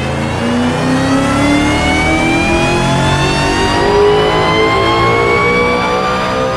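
BMW B58 turbocharged straight-six engine accelerating hard, its pitch rising steadily for about six seconds without a break.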